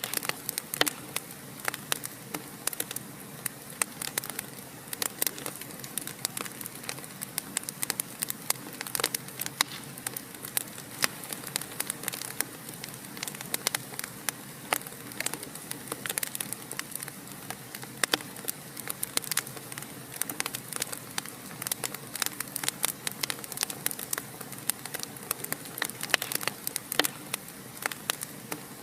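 Wood fire burning in a fireplace: a steady hiss with frequent, irregular sharp crackles and pops.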